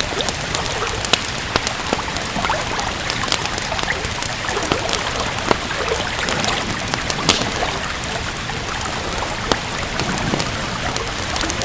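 Steady rain hissing, with a wood fire crackling: frequent irregular sharp pops and snaps over the even wash of the rain.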